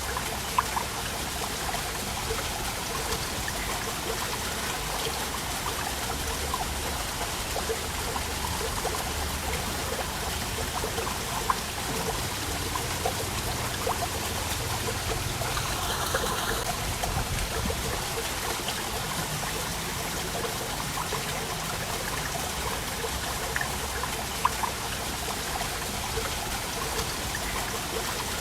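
Waterfall: a steady rush of falling water, with small splashes and drips standing out now and then.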